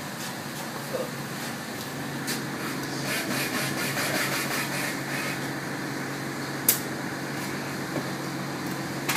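A steady low mechanical hum, with a rougher rustling noise for about two seconds in the middle and a single sharp click near the end.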